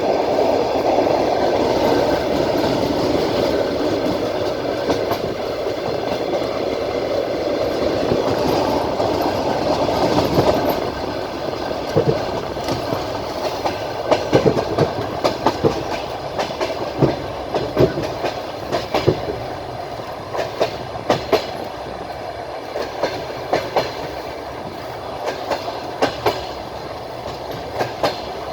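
Train wheels rolling on the rails, heard from a window of the moving train. There is a steady rumble for the first ten seconds or so. From about eleven seconds in it is quieter, with sharp clickety-clack knocks in small groups every couple of seconds as the wheelsets cross rail joints.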